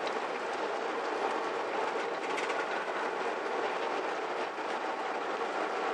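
Car driving along a dirt road: a steady mix of tyre, gravel and engine noise with no change in speed or revs.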